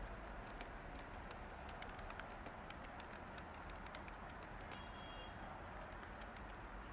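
Steady, faint white-noise hiss with light, irregular computer keyboard keystroke clicks.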